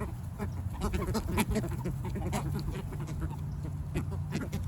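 Ducks quacking in short, irregular calls, with other birds calling.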